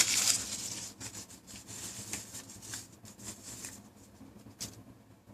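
Paper being rustled and crinkled by hand. It starts with a loud burst of crinkling, then breaks into scattered crackles that grow fainter, with a last sharp crackle near the end.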